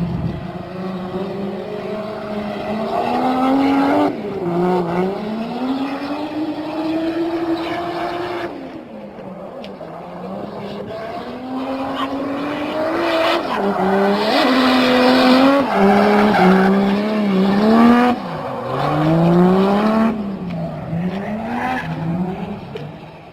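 Turbocharged Toyota Supra engine revving hard. Its pitch climbs and then drops sharply several times as the car accelerates and shifts or lifts off the throttle.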